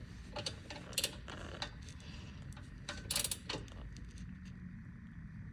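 Scattered metallic clicks and clinks of tools and parts being handled, with a short cluster of clinks about three seconds in, over a low background hum.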